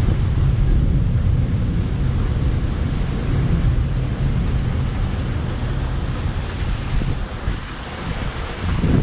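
Strong thunderstorm wind gusts rushing and buffeting the microphone, with a heavy low rumble. The gust eases briefly about eight seconds in and picks up again at the end.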